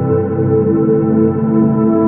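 Ambient synthesizer music from an Arturia MicroFreak: sustained, layered drone tones with a steady wash of overtones.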